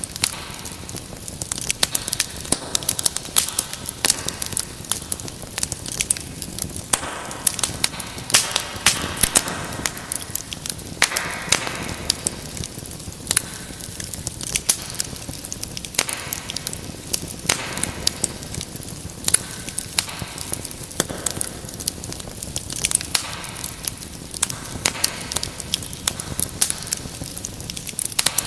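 Wood fire burning in a fireplace, crackling and popping irregularly over a steady hiss of the flames.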